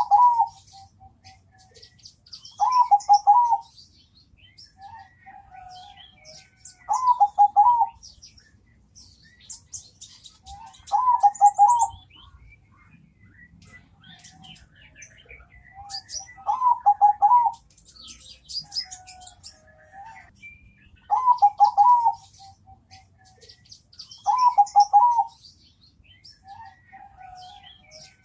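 Zebra dove (perkutut) cooing: a one-second phrase of quick notes, repeated every three to five seconds, with softer short notes between phrases. Fainter high-pitched chirping runs underneath.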